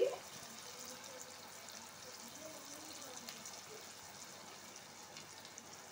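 Onion, ginger and garlic paste sizzling in hot mustard oil in a kadai, a faint steady crackle.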